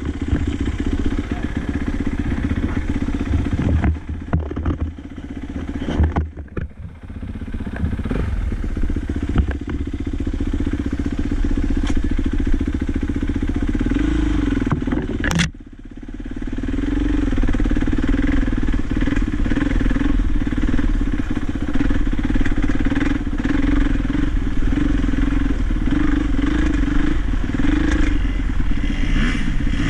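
Dirt bike engine running while riding, its pitch wavering up and down with the throttle. The sound drops sharply for a moment about halfway through, then builds back up.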